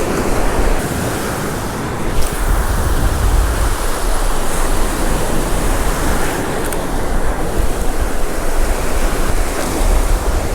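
Surf breaking on the beach, a steady wash of waves with wind rumbling on the microphone, and one brief click about two seconds in.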